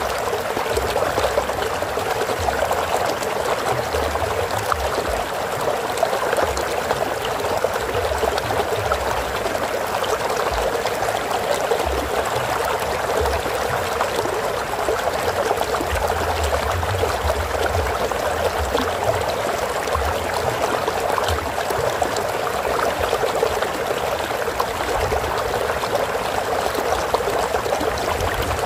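Flowing water: a stream or small cascade running steadily, a continuous splashing trickle without breaks.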